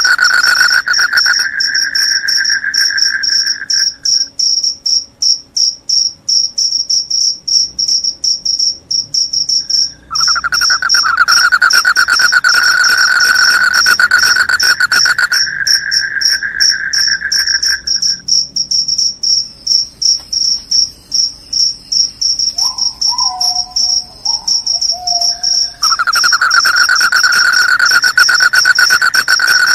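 Crickets chirping loudly: a high, rapid pulsing trill runs on without a break, while a second, lower-pitched trill stops after a few seconds, comes back for several seconds in the middle and starts again near the end. A brief wavering whistle-like call sounds once, about two-thirds of the way through.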